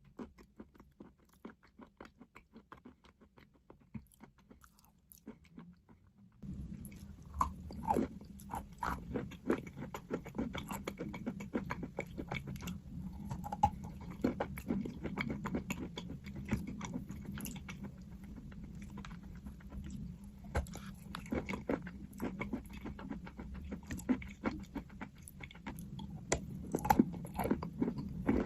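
Chalk being bitten and chewed close to the microphone: many sharp, crisp crunches. It is faint at first and gets much louder about six seconds in.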